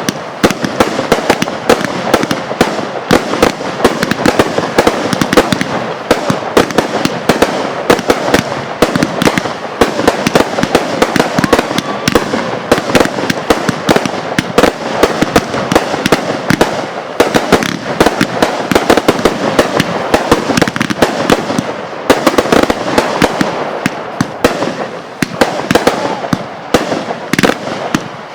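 Fireworks going off in a dense, continuous barrage of rapid crackles and sharp pops, with no break.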